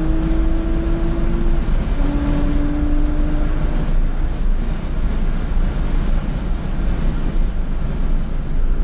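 Porsche 911 Carrera 2 (997) flat-six engine heard inside the cabin, pulling hard at high revs with a slowly rising note. There is a short break about one and a half seconds in, after which it picks up at a lower pitch, as at a gear change. The engine note drops away about four seconds in, leaving steady wind and road noise.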